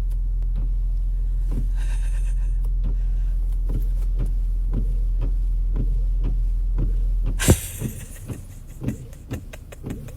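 Steady low drone of a car running, heard from inside, with faint regular ticks over it. About seven and a half seconds in there is one loud knock, and the drone stops.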